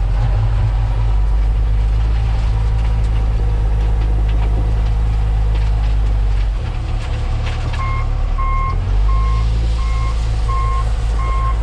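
Heavy diesel machine engine running steadily, its note shifting about two-thirds of the way in; then a reversing alarm starts beeping, a steady repeated beep a little under twice a second.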